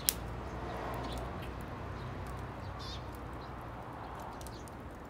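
Faint, short bird chirps over a steady low outdoor rumble, with one sharp click just after the start.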